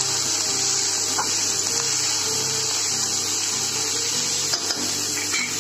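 Sliced onions, garlic, green chillies and whole spices sizzling steadily in hot oil in a kadai as they are stirred with a spatula, with a few light scrapes of the spatula.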